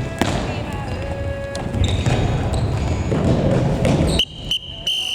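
Futsal play in a gym hall: ball knocks and bounces with players' voices echoing. About four seconds in, the play noise drops away and a long, high, steady tone starts and holds, typical of a whistle or timer signal ending play.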